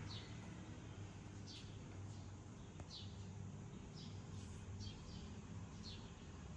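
Faint short, high chirps repeating about once a second, each falling in pitch, like a small bird calling, over a steady low hum.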